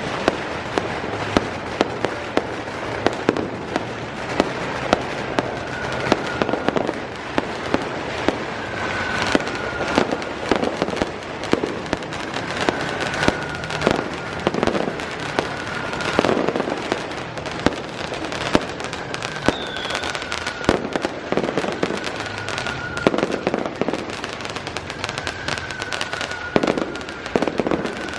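Fireworks and firecrackers going off continuously: dense crackling with sharp pops and louder bangs every second or so, and a short faint whistle every few seconds.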